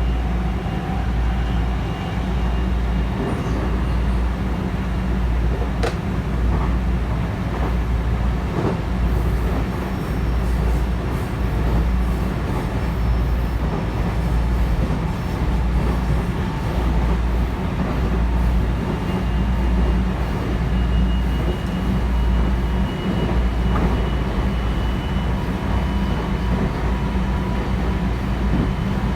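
Cabin noise inside a JR West 223 series 0 electric train running at speed: a steady low rumble of wheels and running gear on the rails. There is a faint high whine in the second half and a single click about six seconds in.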